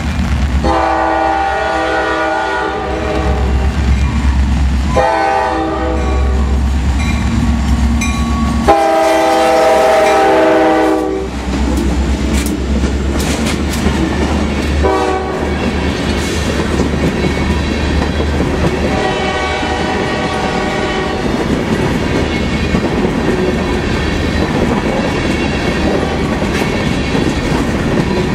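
CSX freight train's diesel locomotives passing close by, sounding their multi-note air horn in three long blasts, the third the loudest, then a short blast and one more later on. After the locomotives pass, the hopper cars roll by with a steady rhythmic clatter of wheels over the rail joints.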